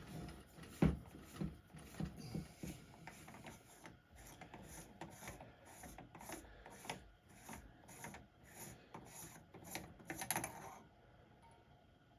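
Hand work on the air rifle's metal regulator parts: a few light knocks, then an even run of short rubbing, scraping strokes about two a second that stops shortly before the end.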